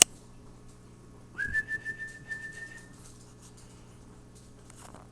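A sharp click, then a single long whistled note, held level for about a second and a half.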